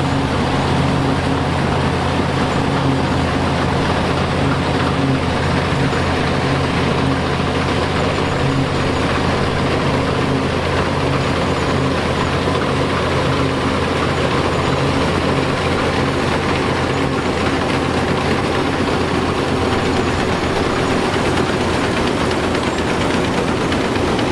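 Engine of a vintage farm machine running steadily at constant speed, with a low, even drone.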